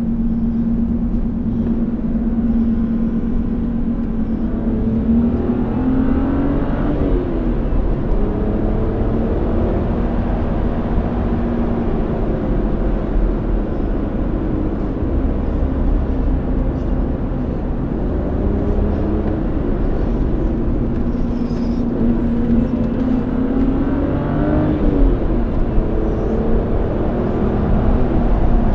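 BMW E90 328i's 3.0-litre straight-six, heard from inside the cabin through a custom sport exhaust while driving. It drones steadily at cruise, and twice, about six seconds in and again around twenty-four seconds in, it revs up, rising in pitch before dropping back.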